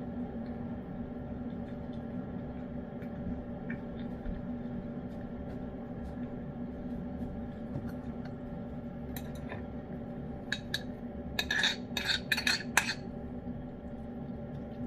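Wet cat food being eaten from a dish: scattered small clinks against the dish, then a cluster of sharper clinks from about nine to thirteen seconds in, over a steady hum.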